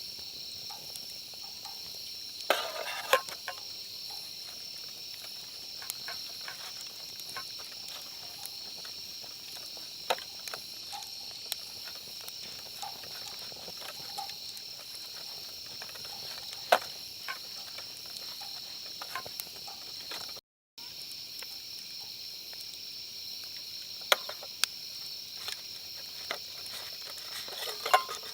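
Steady high-pitched chirring of insects, with scattered sharp clicks and knocks.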